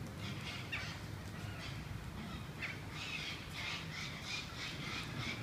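A bird calling in a run of short, harsh calls, a few sliding down in pitch, then about four a second from just past halfway, over a steady low rumble.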